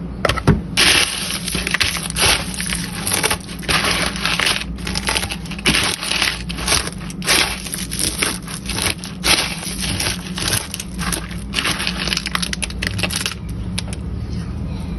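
Cornflakes crunching and crackling in quick irregular bursts as they are pressed and handled, stopping a little before the end.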